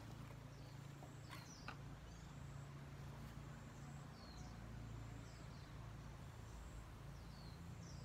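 Faint bird chirps, short high falling notes every second or so, over a low steady hum. Two light clicks about one and a half seconds in.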